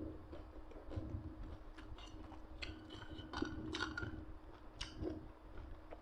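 A person chewing and eating grilled beef, with scattered soft clicks and smacks over a steady low hum.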